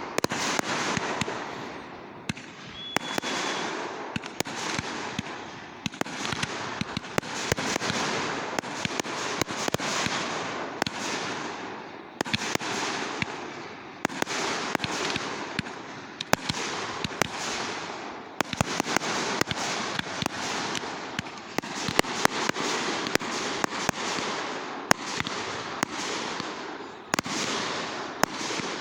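Fireworks going off without a break: crackling, hissing swells that come and go roughly every two seconds, studded with many sharp pops.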